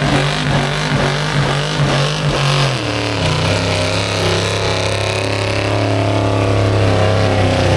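A pulling truck's engine running hard under load. Its pulsing note drops to a lower pitch about three seconds in and then holds, wavering slightly.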